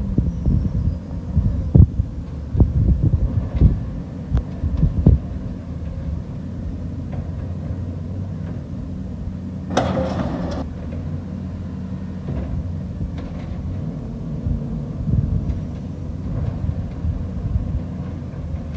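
Garbage truck's diesel engine running steadily, with a run of knocks and bangs over the first few seconds and a short hiss about ten seconds in.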